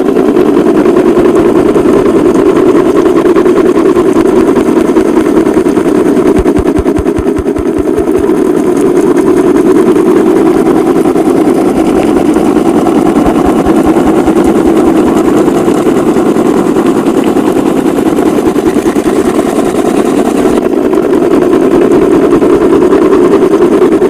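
Small motor-driven model machine running steadily at full speed with a dense, fast rattle.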